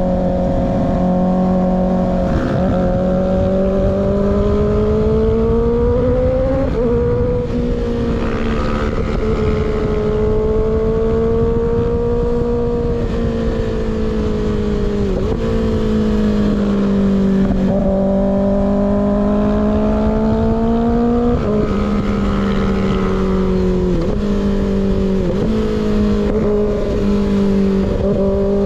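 Kawasaki ZX6R inline-four running under way through an unbaffled M4 GP19 slip-on exhaust, its pitch drifting gently up and down, with several brief dips where the throttle is eased, over wind rush.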